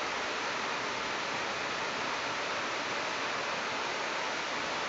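Steady rush of flowing water, an even hiss with no separate events.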